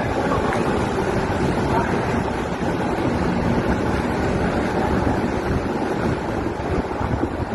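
Large storm waves surging and breaking against a pier in strong wind, with the wind buffeting the microphone.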